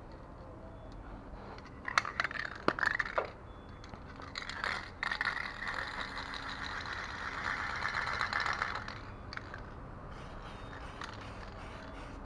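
Aerosol can of clear coat spray paint: a few sharp clicks and rattles about two seconds in, then a steady spray hiss for about five seconds.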